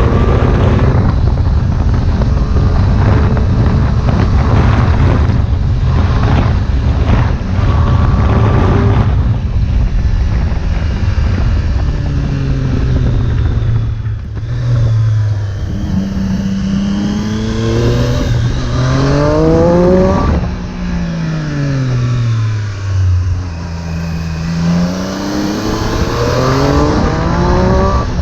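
Triumph Street Triple 765 S inline-three engine through an Arrow exhaust, accelerating and backing off on a hill climb. For about the first ten seconds a heavy rushing noise covers it. After that the engine pitch rises and falls again and again as the rider opens the throttle, shuts it and changes gear.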